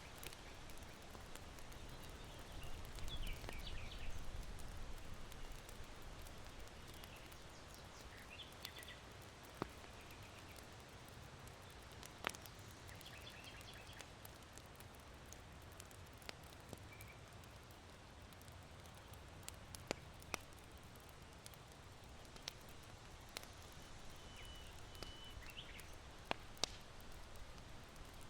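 Faint irori charcoal fire crackling, with a few sharp pops scattered through, over a low wind rumble that swells for a moment near the start. Short, high chirps of small birds come and go in the distance.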